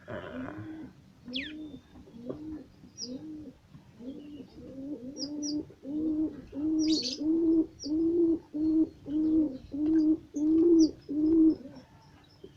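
A dove cooing in a long, even series of short arched notes, about two a second, growing louder about halfway through and stopping shortly before the end. Brief high chirps from small birds are scattered over it, with one falling whistle early on.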